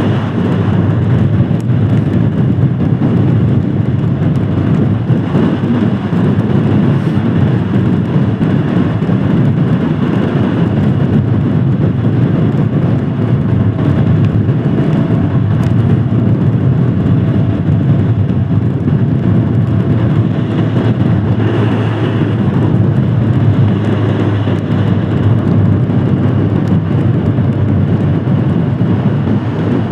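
Royal Enfield Himalayan Scram 411's 411 cc single-cylinder engine running steadily as the motorcycle is ridden, with a constant rushing noise over it.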